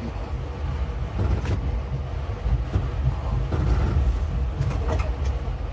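XPT passenger train running, heard from inside the carriage: a steady low rumble with a few faint clicks and knocks.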